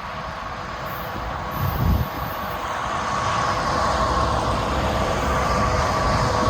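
Union Pacific freight train approaching: a low rumble with steady high tones over it, growing louder, with a low thump about two seconds in.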